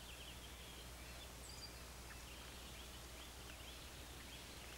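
Faint birds chirping over a steady low hum.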